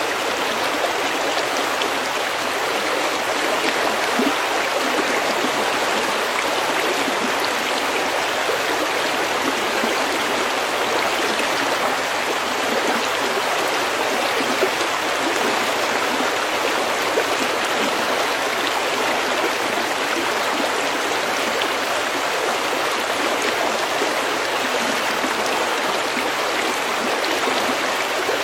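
A stream of snowmelt water flowing steadily over stones, a constant rushing babble.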